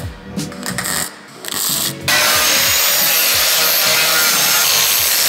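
Power grinder grinding rust off steel car parts: a loud, steady abrasive hiss that starts about two seconds in, after a stretch of background music with a beat.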